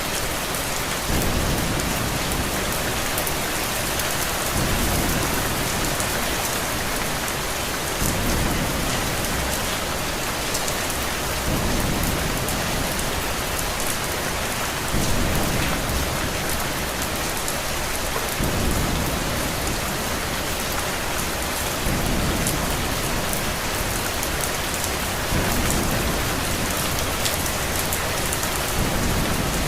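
Steady heavy rain with low rumbles of thunder swelling up every three to four seconds.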